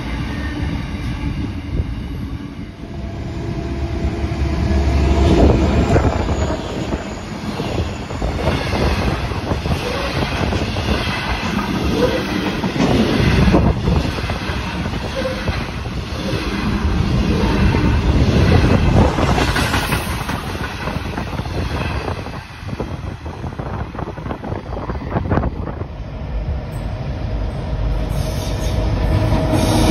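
Freight train wagons rolling past at close range: steady wheel-on-rail noise with clickety-clack over the rail joints, swelling and fading as the train goes by. Near the end, NSW 81 class diesel locomotives approach and their engines grow louder.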